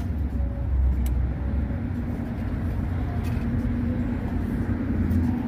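Steady low rumble of a motor vehicle's engine running, with a constant hum and a couple of faint ticks.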